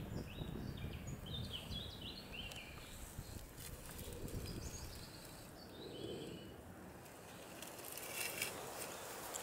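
A small songbird singing short phrases of high, stepped notes, over a low rumble on the microphone, with a few light clicks near the end.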